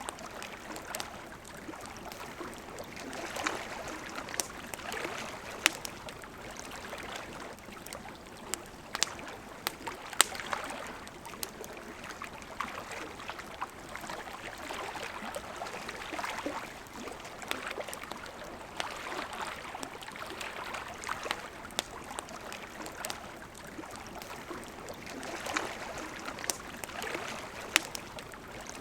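Flowing river water with a steady gurgling rush that swells and eases every few seconds, and a wood campfire crackling over it in sharp irregular pops, a few of them louder.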